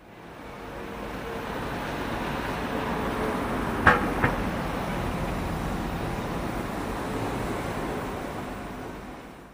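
Steady rushing of sea surf and wind that fades in and out, with two sharp knocks about four seconds in.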